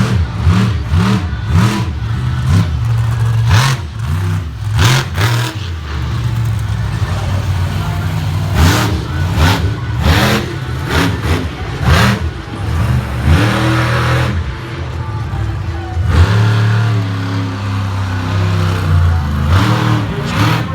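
Monster truck engine revving hard in repeated bursts, its pitch climbing and falling again and again, with several sharp bangs along the way.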